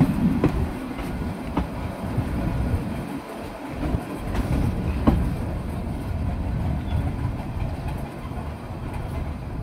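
Passenger train coach running on the line, with a steady rumble from the wheels on the rails and a few sharp clacks as they cross rail joints and points.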